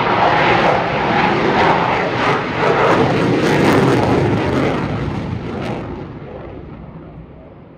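Loud jet noise from a Eurofighter Typhoon's twin EJ200 turbofan engines as the fighter flies a slow, high-alpha pass held on engine thrust. The noise fades steadily over the last few seconds as the jet moves away.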